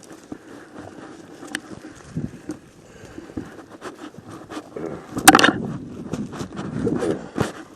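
Footsteps and rustling through brush on a woodland trail, with scattered small cracks and one loud sharp crack or scrape a little after five seconds in.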